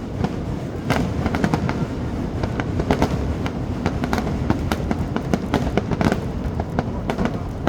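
Aerial fireworks bursting overhead in rapid succession: many sharp cracks and bangs over a continuous deep rumble of booms.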